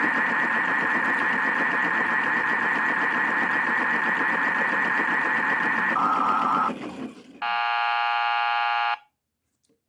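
Battery-powered toy washing machine running a cycle: its small motor whirrs under a high warbling electronic tone, which drops lower about six seconds in and then stops. An electronic buzz follows for about a second and a half, and then the toy falls silent.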